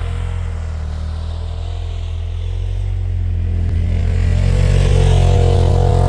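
Polaris RZR side-by-side engine running under way, easing off slightly and then building revs again about halfway through.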